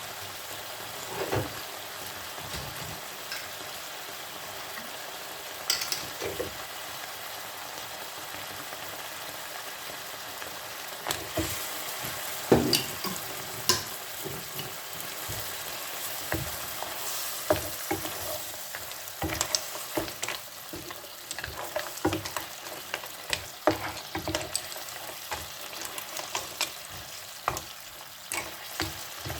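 Seafood in tomato sauce sizzling in a frying pan while it is stirred, with frequent clicks and knocks of the stirring utensil against the pan, more of them in the second half.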